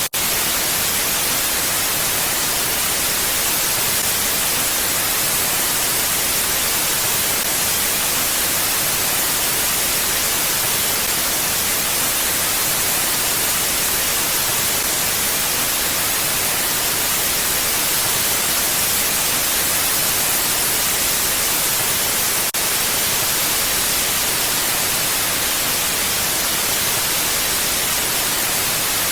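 Steady mountain wind, an even hissing rush with no gusts or pauses.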